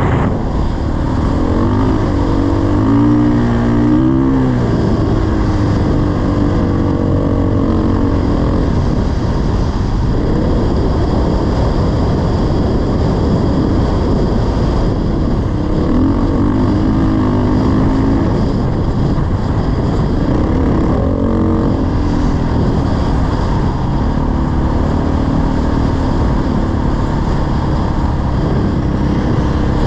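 Dirt bike engine running while riding, its pitch rising and falling with the throttle several times, under a steady rush of wind noise.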